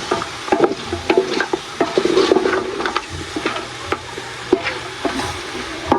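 A cooking utensil stirring food in a pot, clicking and scraping irregularly against the pot.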